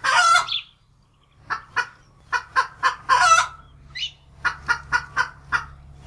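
A bird calling: a long, loud squawk at the start, then a quick run of short, sharp calls with a louder, longer one a little past the midpoint.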